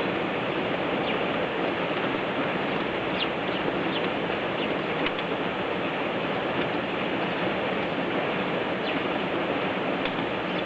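Short, high chirps of black bulbuls, several in a cluster about three to five seconds in and one more near the end, over a steady rushing background noise.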